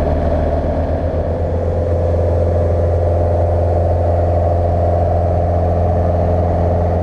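Steady drone of a Beechcraft Sundowner's four-cylinder piston engine and propeller in cruise, heard from inside the cabin.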